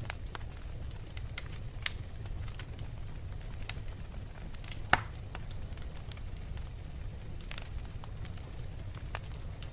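Wood logs burning in a fireplace: a steady low rumble of the fire with scattered sharp crackles and pops, two louder pops about two and five seconds in.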